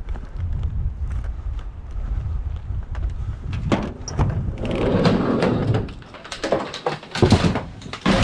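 Low rumble of wind on the microphone, then a rolling, rattling noise lasting about two seconds, followed by several sharp knocks.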